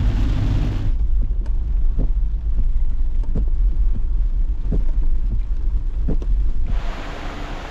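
Off-road vehicle driving on a rough trail: a steady low rumble with scattered short knocks and clunks. Near the end it gives way to a broad hiss of noise.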